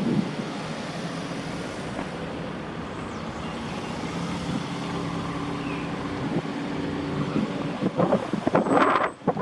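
A motor vehicle's engine running close by with a steady, even hum, and gusts of wind buffeting the microphone near the end.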